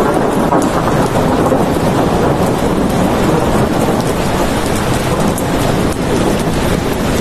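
Steady, loud rainfall with a low rumble of thunder beneath it.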